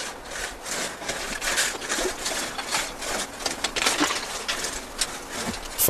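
Water splashing and running over ice-covered wooden racks, a steady hiss with many irregular small clicks and crackles.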